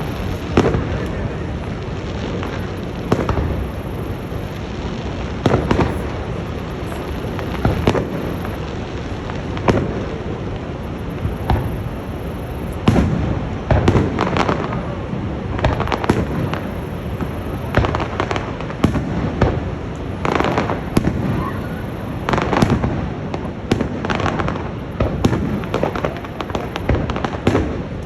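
Fireworks going off in an irregular string of bangs and crackles, several a second at times, over a steady background rumble.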